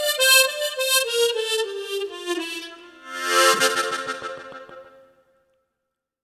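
Tremolo harmonica playing the end of a melody: a run of single notes stepping downward, then a closing chord that swells about three seconds in and dies away about five seconds in.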